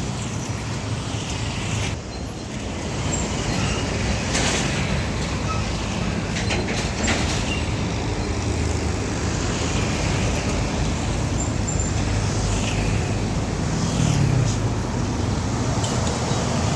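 Heavy truck engine running as it drives past, over steady road traffic noise, with the engine pitch rising briefly near the end.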